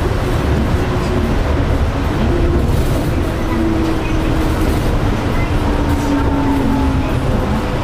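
Yurikamome automated guideway train running on its rubber tyres along the concrete guideway: a steady, loud rumble with a faint motor whine that slowly drops in pitch partway through.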